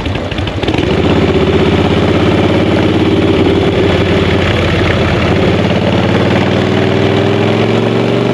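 Chopper motorcycle engine under way: after a choppy, lower-level first second it settles into a steady pull, its pitch rising slowly as the bike gathers speed, over a steady rushing noise.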